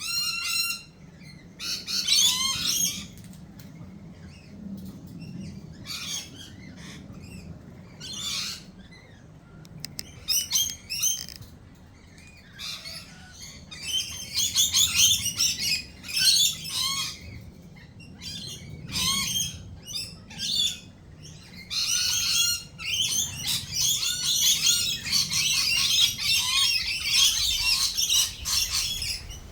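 Several birds calling in short, quick chirping notes. The calls come in scattered bursts at first and thicken into dense, overlapping chatter in the middle and again through the last part.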